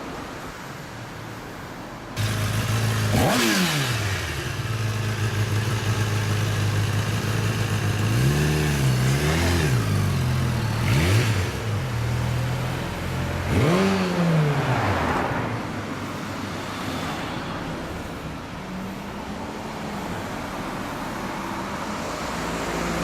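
High-performance sport motorcycle engine running hard, starting abruptly about two seconds in. It revs up and down several times, with a sharp drop in pitch like a bike speeding past.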